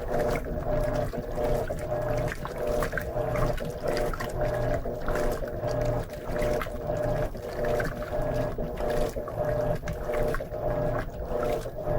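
Electrolux LM13Q top-load washing machine in its initial wash agitation on a load of jeans: the motor hums and the agitator churns the clothes back and forth through the water, swelling and easing in a steady repeating rhythm.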